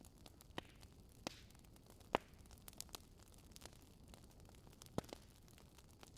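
Fireplace fire crackling: irregular sharp pops and snaps, the loudest a little over two seconds in, over a faint steady hiss.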